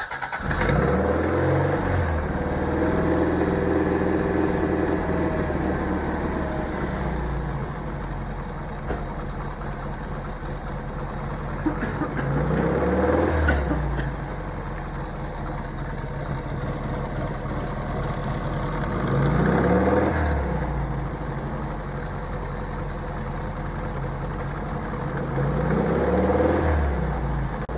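1985 Toyota MR2's four-cylinder engine starting and then idling unevenly, its revs swelling up and dropping back every several seconds: a surging idle that the owners trace to the cooling system being low on water.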